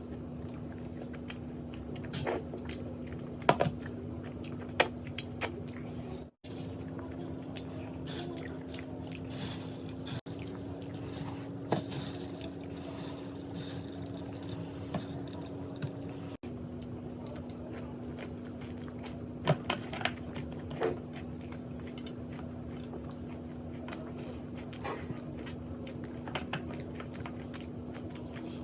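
A person chewing and eating close to the microphone, with scattered crunches and wet mouth sounds, over a steady low hum.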